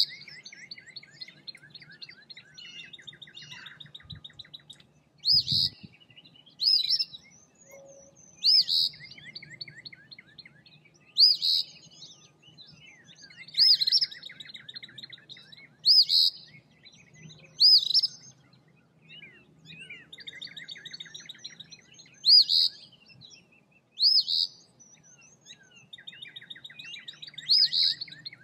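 Eastern phoebe calling: short, sharp, high notes repeated about a dozen times, a second or two apart. Between them, another bird's fainter, fast, dry trills come and go.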